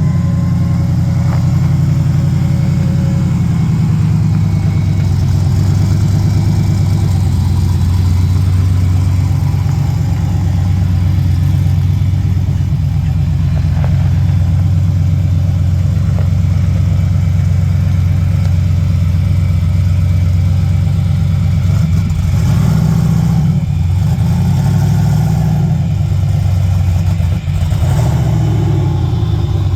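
Car engine idling with a steady low rumble; about two-thirds of the way through, its pitch rises and falls briefly before settling again.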